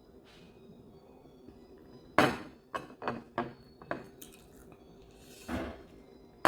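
Kitchen utensils knocking and clinking against dishes and pots: a sharp knock about two seconds in, then several quicker clinks, and a duller knock near the end.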